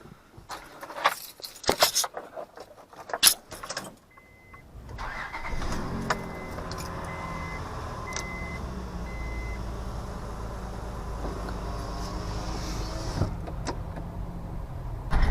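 Keys and interior clicks and knocks, then a dashboard chime beeping repeatedly. The 2004 Honda Odyssey's 3.5-litre V6 starts about five seconds in and settles into a steady idle on a fresh set of spark plugs.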